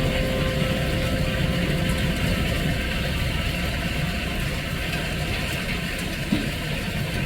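Car running with steady engine and road rumble, heard from inside the cabin.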